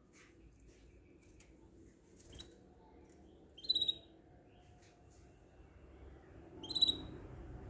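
A small bird giving two short, sharp chirps about three seconds apart, with a few faint clicks between them.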